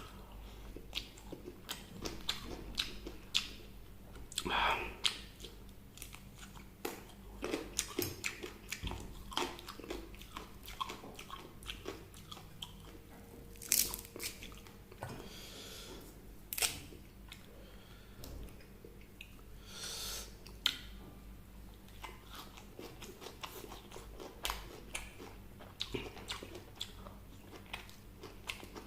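A person biting, crunching and chewing fried chicken close to the microphone, with irregular sharp crunches, a few much louder than the rest.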